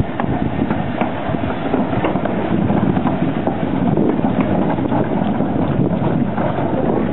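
A train running: a steady rumble with a few faint clicks, growing slightly louder about halfway through.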